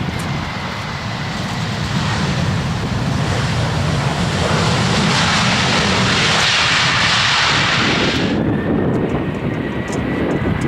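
An airliner passing close by with its engines running. The high engine hiss builds to a peak and drops away sharply about three-quarters through, leaving a low rumble.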